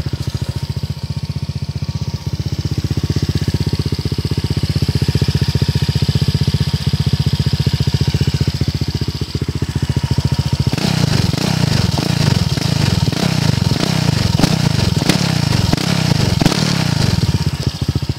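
Honda PCX150 scooter's single-cylinder four-stroke engine running through an FMF aftermarket exhaust. It idles steadily at first. About eleven seconds in it turns louder and uneven with light throttle blips, then drops back to idle near the end.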